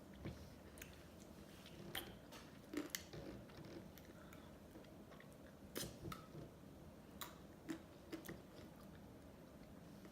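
A person eating ice cream close to the microphone: irregular short, sharp mouth clicks and smacks with quiet between them.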